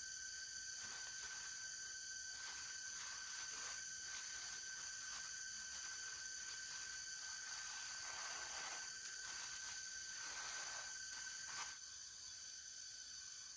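Forest insects chirring in a steady, high-pitched drone. Irregular rustling noises run through it and stop about twelve seconds in.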